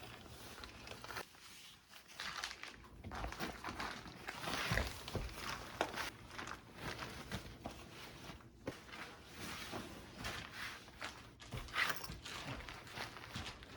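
Irregular rustling and crinkling with light knocks and clicks of things being handled and set down, along with footsteps.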